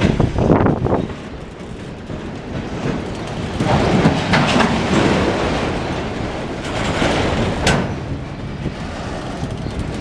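A CSX autorack freight train rolling past, with a steady rumble and rattle of its wheels and a few sharp clanks.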